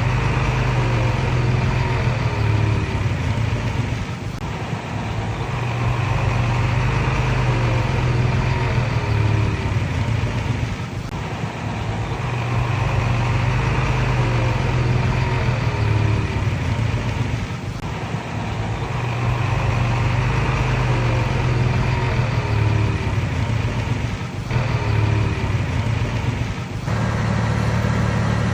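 Komatsu D31PX bulldozer's diesel engine running under working load, its note easing off briefly about every seven seconds as it pushes and shifts direction, with repeated short squeaks alongside.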